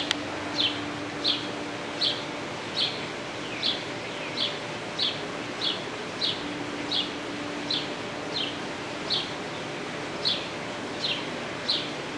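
A bird repeating a short, high, falling chirp about every three-quarters of a second, over the steady noise of a ceiling fan running on high. A single sharp click sounds just after the start.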